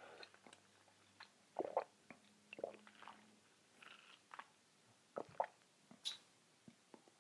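A person chewing food with the mouth close to the microphone: faint, irregular mouth clicks and short smacks, a little louder about one and a half seconds in and again after five seconds.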